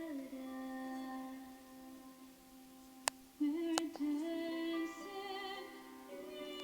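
Music: a woman's voice singing slow, long-held notes, some with vibrato. Two sharp clicks come a little before halfway through.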